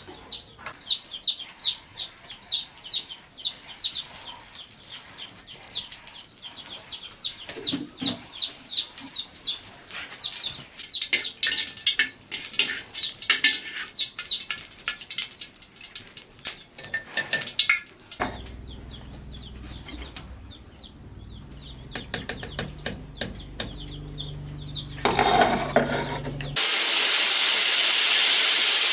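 Chicks peeping in rapid, repeated high chirps at first, then a long stretch of clattering of pots and utensils. Near the end a loud, steady hiss sets in suddenly.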